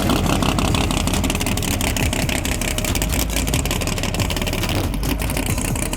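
Drag car engine running at high revs with a rapid crackling beat, its pitch falling over the first couple of seconds as the car runs off down the strip.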